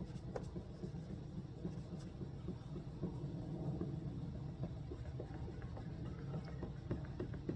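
Folded restoration wipe rubbed back and forth on a plastic headlight lens, giving small scratchy scuffs over a steady low rumble.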